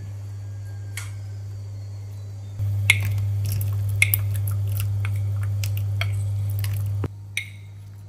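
Metal spoon tapping and scraping a ceramic bowl a few times as pieces of grapefruit pith are tipped into a pan of boiling water. Under it runs a steady low hum from the induction hob heating the pan, louder for a few seconds in the middle.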